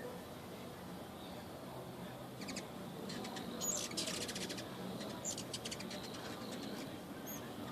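Several hummingbirds chattering at a feeder: bursts of rapid high chips and short squeaky notes, about two and a half seconds in, again a little later, and once more past the five-second mark.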